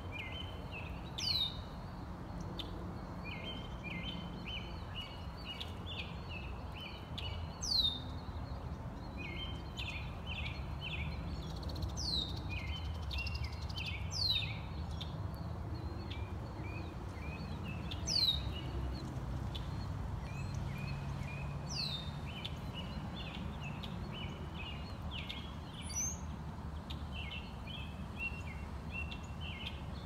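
Wild birds calling. A sharp, high whistle that slides down in pitch rings out six times, a few seconds apart, over repeated bursts of quicker chirping, with a steady low rumble underneath.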